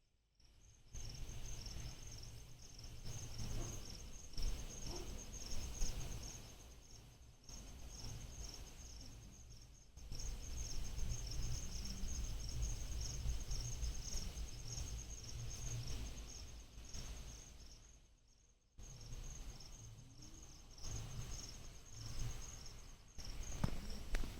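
Night wind gusting against the microphone in uneven low buffets, with a steady high chirring of crickets underneath. It starts after a moment of near silence and drops away briefly near the three-quarter mark.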